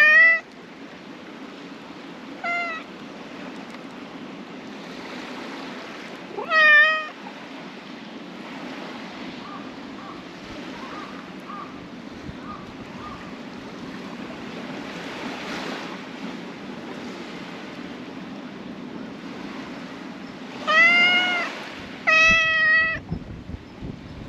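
Domestic cat meowing about five times: one right at the start, a short faint one, one a few seconds later, then two in quick succession near the end, over steady background noise.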